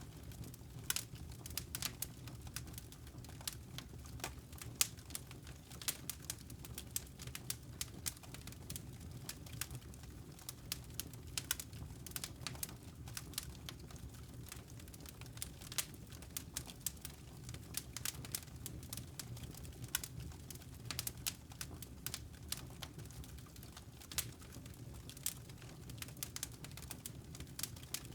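Wood fire crackling in a fireplace: irregular snaps and pops, several a second, over a steady low rumble.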